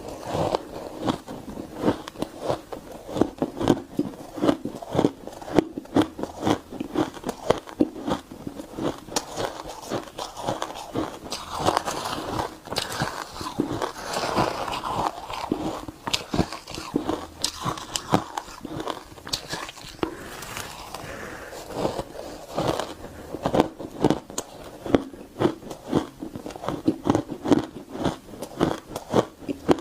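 Biting and chewing crunchy refrozen shaved ice: a close, continuous run of crisp crunches, several a second.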